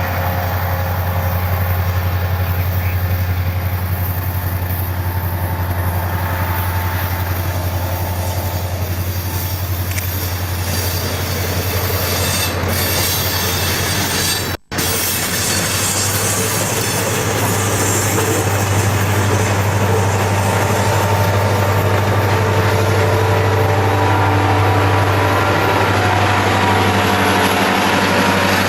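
Diesel locomotives running past with a steady low engine drone, with wheels squealing on the curving track. The sound cuts out briefly about halfway through.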